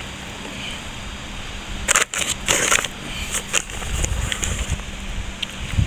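Wet sand and plaster render being mixed by hand in a bucket: irregular gritty scraping and crunching in short bursts, the loudest about two seconds in.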